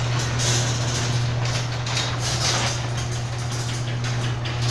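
Chamberlain HD400DM garage door opener running the door down: a steady motor hum with a rough rattling noise over it.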